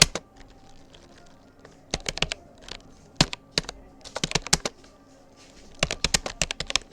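Typing on a Rapoo computer keyboard: key clicks in irregular quick bursts with short pauses between them, the longest pauses just after the start and a little before the end.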